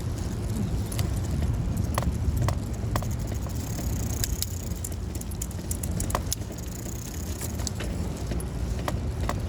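A bicycle being ridden: a steady low rumble of wind and tyres, with frequent light metallic rattles and clinks scattered through it.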